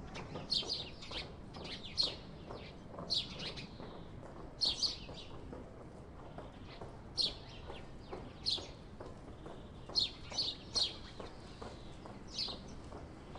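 House sparrows chirping: short sharp chirps, some single and some in quick pairs, a dozen or so at irregular intervals, over a faint steady background noise.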